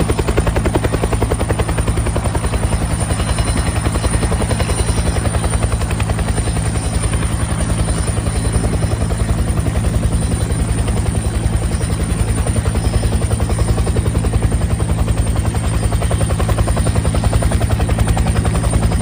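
Agusta-Bell 212 helicopter running steadily, its two-blade main rotor beating in a fast, even pulse over the twin turbines, with a thin high whine above.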